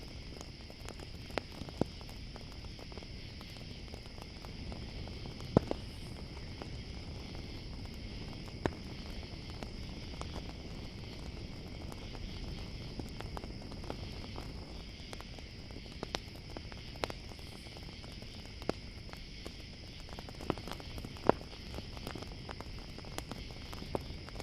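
Campfire crackling with irregular sharp pops, a couple of them much louder, over a steady high chirring of crickets.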